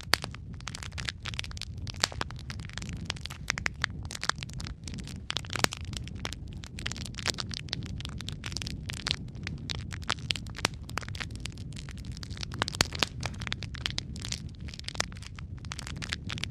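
Wood fire crackling in a fireplace: dense, irregular pops and snaps over a steady low rumble of the burning logs.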